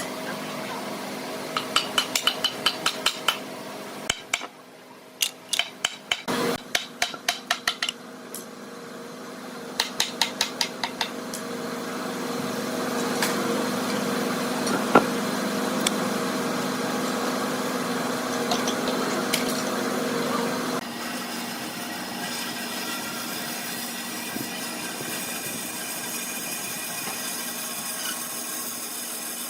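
Quick runs of sharp taps or knocks, like tool strikes in a workshop, followed by a steady machine hum that changes tone about two-thirds of the way through.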